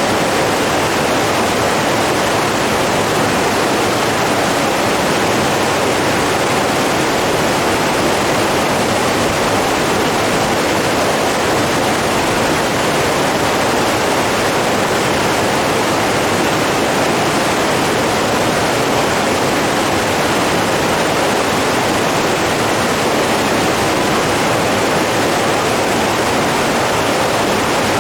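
Steady rushing of flowing water, an even unbroken roar with no pauses or swells.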